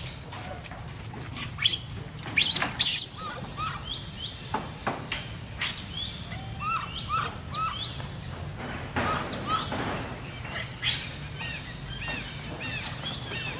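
Birds chirping repeatedly in short arched calls, over a steady low outdoor hum. A few short, loud, harsh noises break in about two to three seconds in and again near eleven seconds.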